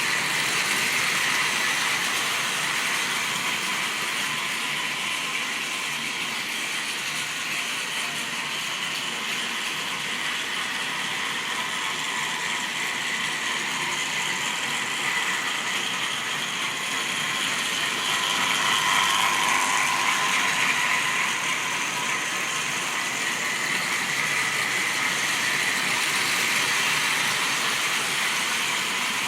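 Model railway train running along the track: a steady whirring and rattling of the locomotive's electric motor, gears and wheels on the rails. It grows louder twice, about two-thirds of the way through and again near the end, as the train comes past.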